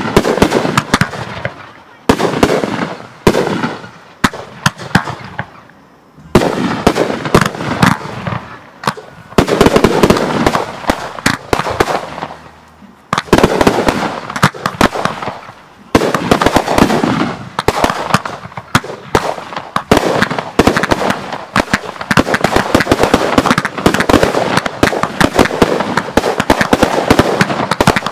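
Aerial fireworks bursting overhead: sharp reports and crackling, in separate volleys about every two seconds at first, then a near-continuous barrage through the second half.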